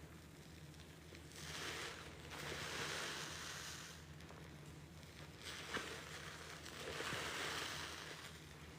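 A paste-loaded sponge being squeezed and rinsed, soapy water gushing out in four pours of about one to one and a half seconds each. A faint steady low hum runs underneath.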